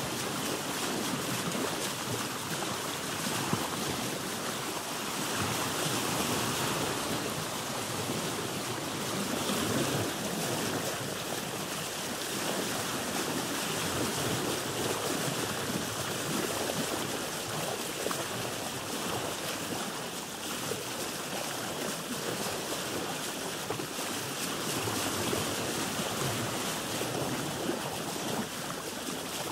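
Sea water sloshing and lapping against a boat's hull, a steady wash of water with gentle swells in loudness.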